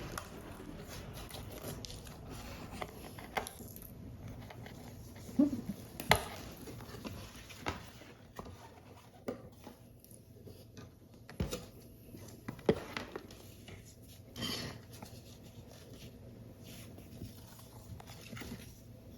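Close-up handling of paper model pieces: light rustling with scattered sharp taps and clicks as the paper parts are worked by hand.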